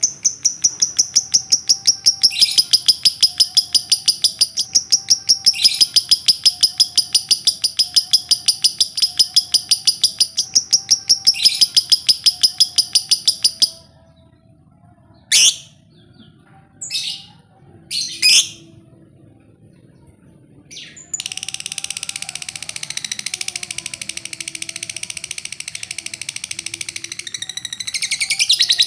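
Lovebird doing its ngekek song: a long run of rapid, evenly repeated high-pitched chattering notes lasting about fourteen seconds. It breaks off into a few single sharp calls, then starts a second long chattering run about two-thirds of the way in.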